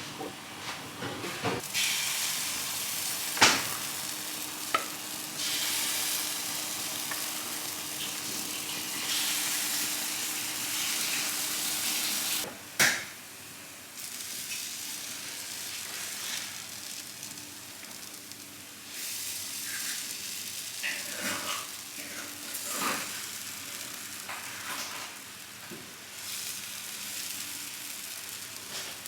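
Food sizzling as it fries in a pan, a steady hiss that swells and eases, with a few sharp knocks of a utensil against the pan.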